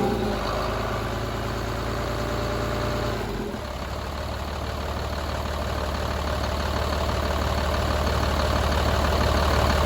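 Mercedes MBE 926 7.2-litre inline-six diesel engine coming down from a rev and idling steadily. Its note drops slightly about three seconds in, then holds.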